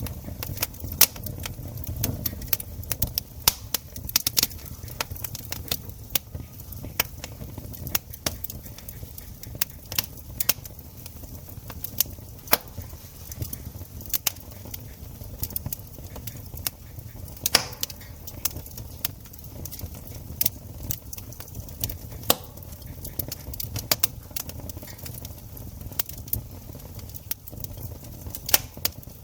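Wood campfire crackling, with many irregular sharp pops and snaps over a low steady rumble of the burning fire.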